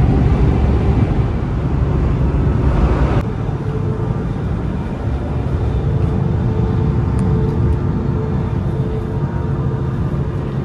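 Jakarta–Bandung high-speed train running at speed, heard from inside the carriage: a dense, steady low rumble and rush. It drops abruptly about three seconds in, then carries on quieter with a faint steady hum.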